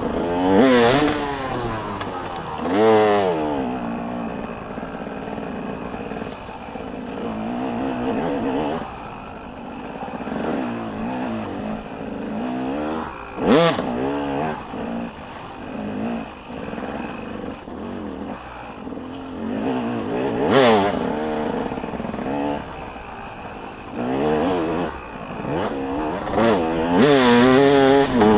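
Motocross dirt bikes racing around the track, engines revving up and down in constant throttle changes. Several bikes pass close and loud: about a second in, near three seconds, twice in the middle, and again near the end.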